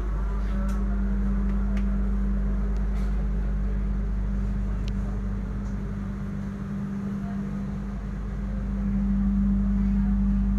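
Steady low mechanical hum of a passenger train heard inside the carriage, with one strong unchanging drone; it eases slightly about two thirds of the way through and swells again near the end.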